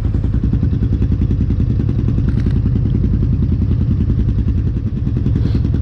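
Four-wheeler (ATV) engine running steadily while riding, with a fast, even firing pulse.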